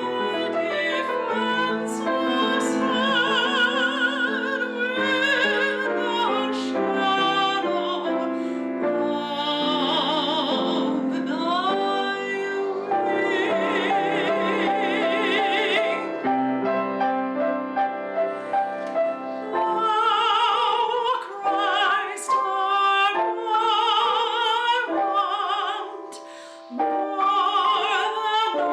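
Classical music: a solo singer with wide vibrato over piano accompaniment, sung in an operatic style, with a brief drop in loudness late on.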